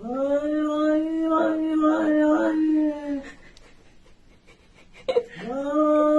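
Dog howling: two long, steady howls, each sliding up at the start and then holding one pitch. The first lasts about three seconds, and the second begins near the end.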